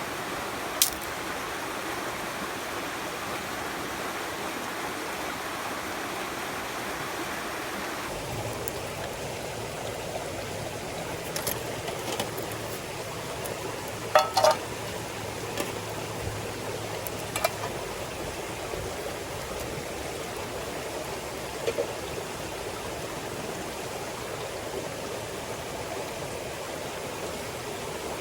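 Clear stream running steadily, with a few short sharp clicks and knocks scattered through. The water sound changes in character about eight seconds in.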